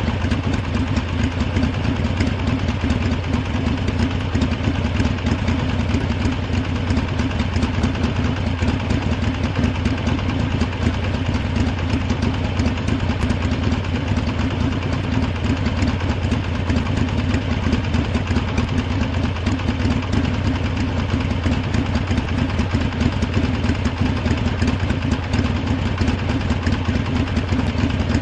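Harley-Davidson motorcycle engine idling steadily, with no revving or change in pitch.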